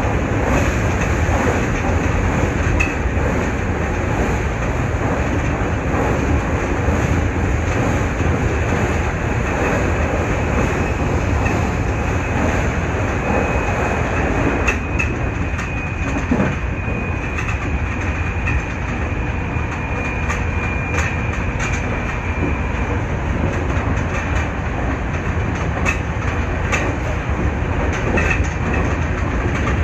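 Nankai 8300-series electric train running at speed, heard from inside the front car: a steady rumble of wheels on rail with scattered clicks over rail joints. A faint high squeal comes in over the middle stretch.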